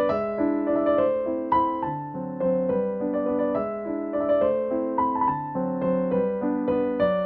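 Background piano music: a gentle, flowing melody of struck notes that ring and fade over a steady accompaniment.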